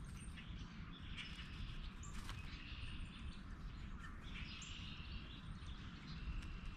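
Wild birds chirping and calling in short, repeated notes, over a steady low background rumble.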